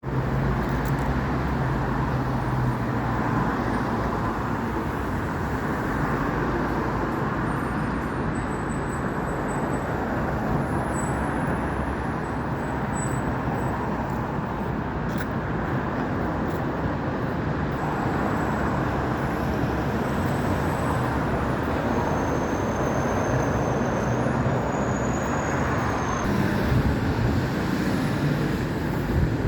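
Steady road traffic noise: cars and buses running and passing on a busy street, with a low engine hum near the start.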